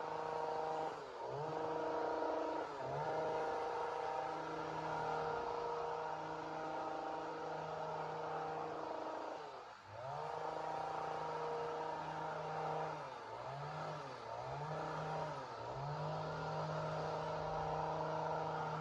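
Two-stroke chainsaw running at high revs, its engine speed dropping briefly and climbing back about six times.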